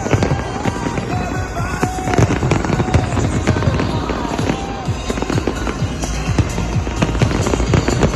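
Fireworks display going off in rapid succession, a dense run of bangs and crackles, with the show's music soundtrack playing underneath.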